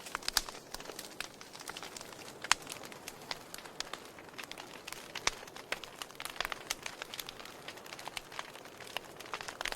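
Wood fire in a fireplace crackling, with irregular sharp pops and snaps over a soft steady hiss; the loudest pops come about half a second and two and a half seconds in.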